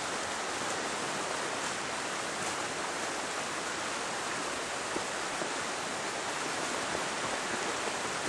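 Steady rushing of a river running close by, an even watery hiss with no distinct events.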